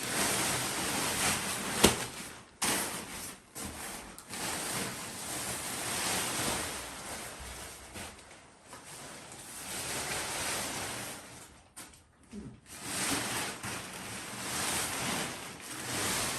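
Tent fabric rustling and swishing as the tent is handled, rising and falling in swells, with a sharp click about two seconds in.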